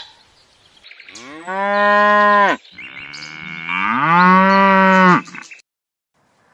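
Cow mooing: two long moos back to back, the second sliding up in pitch before holding steady.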